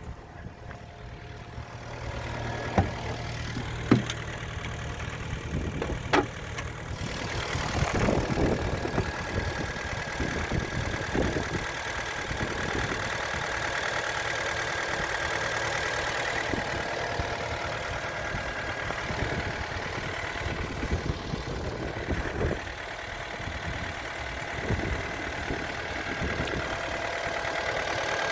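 Kia Sportage 2010's G4KD 2.0-litre four-cylinder petrol engine, with 147,000 km on it, started from cold: a few sharp clicks, the engine catching about seven seconds in, then idling steadily.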